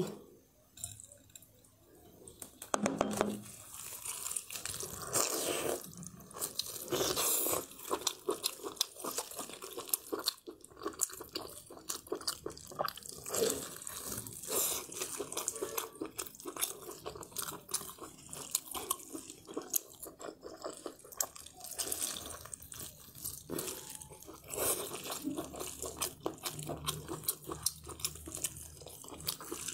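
Close-miked wet chewing and squelching of chili-oil-soaked honeycomb beef tripe, with many small sticky mouth clicks and tearing of the chewy tripe.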